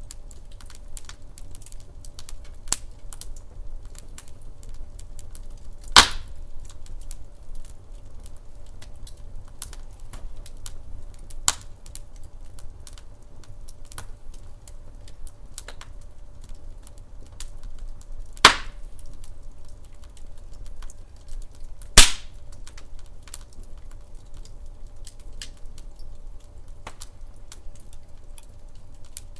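Log fire crackling in a fireplace: a steady patter of small crackles over a low rumble of flame, broken by a few loud, sharp pops from the burning wood. The loudest pops come about six seconds in, past the middle, and about three quarters of the way through.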